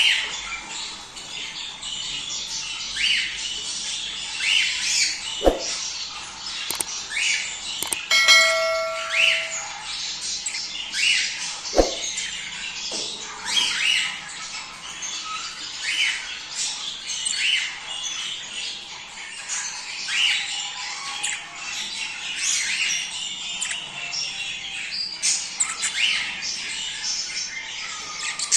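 A flock of budgerigars chattering, with dense, overlapping chirps and squawks: the excited breeding-season chatter that breeders play to encourage budgies to mate. About 8 seconds in, a brief bell-like ring sounds, and there are a couple of sharp clicks.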